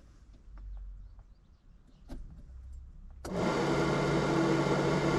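A few faint clicks, then about three seconds in an electric motor on the boat switches on suddenly and runs at a steady pitch.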